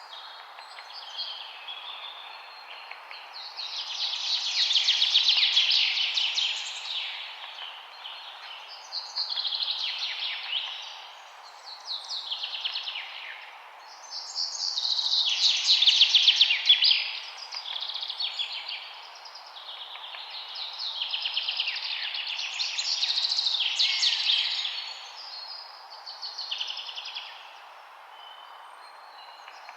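Songbirds singing: a run of fast trilled song phrases, each a second or two long, many sweeping down in pitch at the end, repeated every few seconds over a steady hiss.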